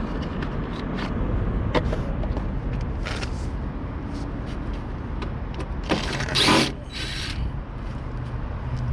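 Steady low outdoor rumble with scattered light clicks of small parts being handled. About six seconds in there is a brief loud rustling hiss, then a shorter one.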